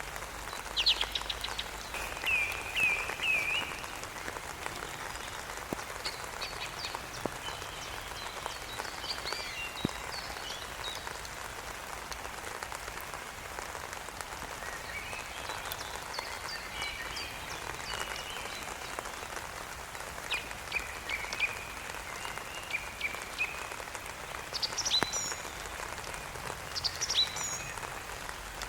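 Steady rain falling, with groups of short, high chirping calls repeated every few seconds.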